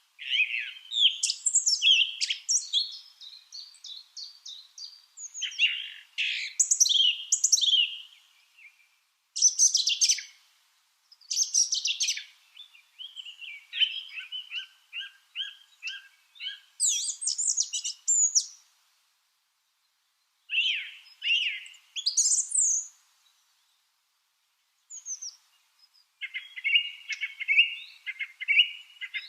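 Lovebirds chirping and chattering in bursts of rapid, sharp chirps, with a couple of brief pauses past the middle.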